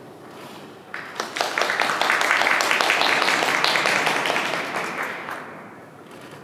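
Audience applauding: a few scattered claps about a second in, swelling quickly into steady clapping, then dying away after about four seconds.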